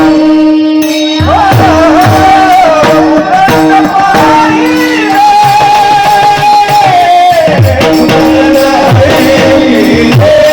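Marathi devotional song: a woman's voice singing a gliding melody over a held low note and repeated drum beats. The drums stop for about the first second, then come back in.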